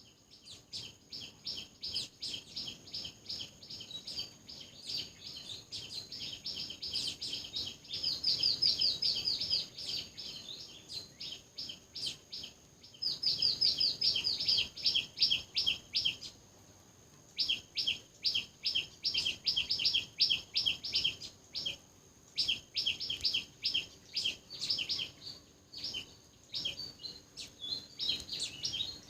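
Parrot chirping in fast, high, repeated chirps, several a second, in long runs broken by brief pauses.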